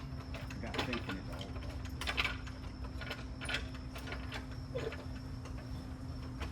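Hand tools working on a car's suspension bolts: scattered metallic clicks and clanks every second or so, over a steady low hum.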